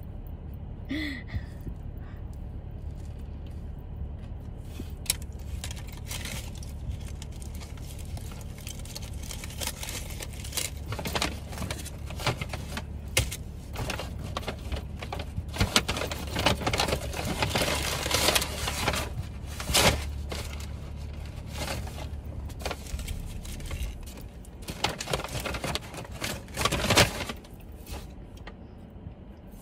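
Close-up chewing and crunching of a crispy fried chicken sandwich: irregular crunchy clicks, thickest in the second half. A steady low hum runs underneath and stops about three-quarters of the way through.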